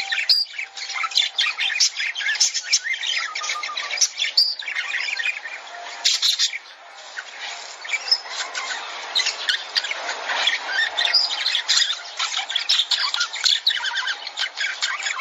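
A flock of lovebirds chattering: dense, rapid high chirps and squawks, with a brief lull about seven seconds in.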